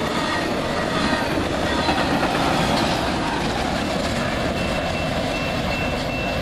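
Double-stack intermodal freight train rolling past close by: a steady rumble and rattle of wheels on rail. A steady high-pitched tone joins about four and a half seconds in.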